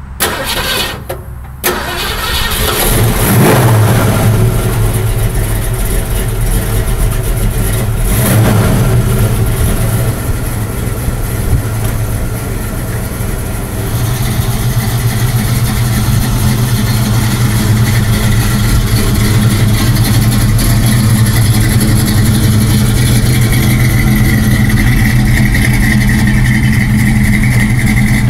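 Classic muscle car engine starting: it catches about two seconds in with a flare of revs that drops back, gives a short rev near eight seconds, then runs at a steady idle.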